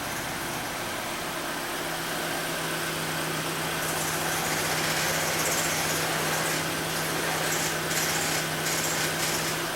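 Citroën C4 1.6 16V engine idling with the clutch pedal pressed, and a strange noise from the clutch: a steady drone comes in about two seconds in and a hiss joins about four seconds in. The mechanic takes the noise and pedal judder as the sign of a worn clutch kit.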